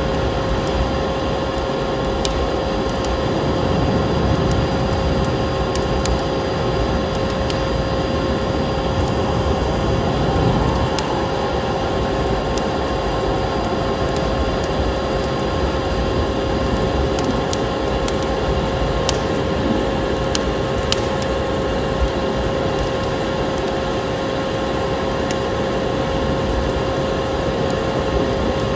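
Steady drone of a vacuum cleaner motor, holding a constant hum, with a wood fire crackling and popping over it in scattered small snaps.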